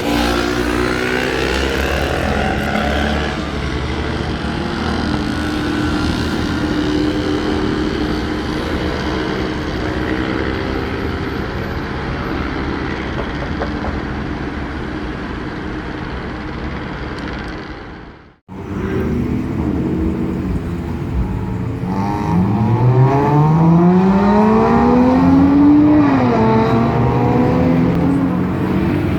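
Motor vehicle engines running loudly in traffic. The sound cuts out suddenly for a moment about two thirds of the way in, then one engine revs up, its pitch rising for about four seconds before dropping.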